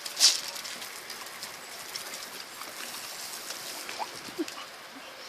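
Running water with a steady hissing splash, a louder splash about a quarter second in, and small splashes and clicks throughout.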